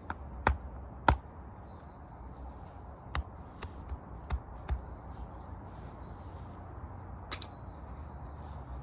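Campfire crackling: sharp, irregular pops and snaps of burning wood, about seven of them, over a low steady rumble.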